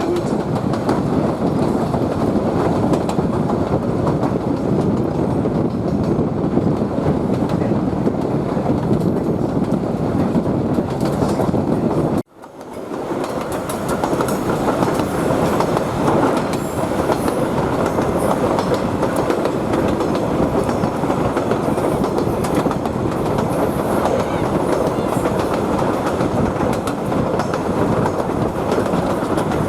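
Queensland Rail 2000 class diesel rail motor running along the track, a steady rumble of wheels on rails. The sound drops out suddenly about twelve seconds in and comes back within a second or two.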